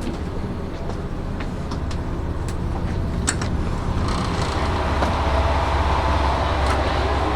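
KiHa 185 diesel railcar idling while stopped: a steady low engine hum with a few light clicks, and a louder rushing noise building in about four seconds in.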